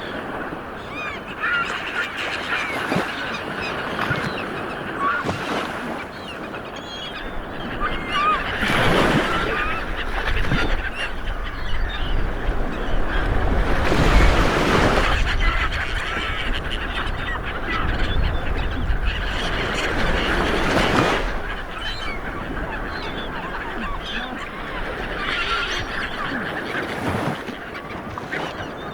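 Ocean surf washing in, with swells about every five to seven seconds, under many overlapping honking calls from a flock of waterbirds.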